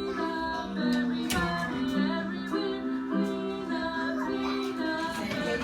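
A children's clean-up song playing, singing over music in held notes, with one light click about a second in.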